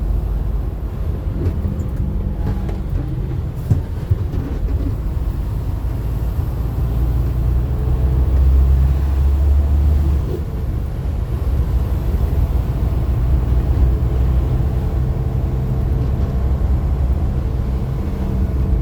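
Car engine and road noise heard from inside the cabin while driving: a steady low rumble that swells about seven to ten seconds in. Two short clicks about four seconds in.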